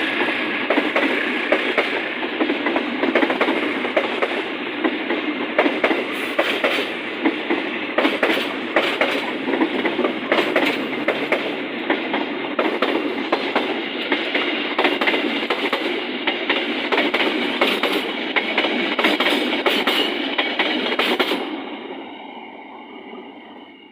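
Train rolling past close by, its wheels clacking over rail joints in an irregular run of clicks over a steady rolling noise. The sound dies away near the end.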